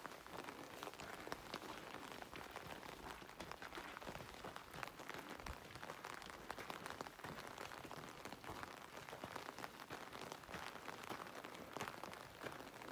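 Faint light rain pattering: many small, irregular drop ticks over a steady hiss.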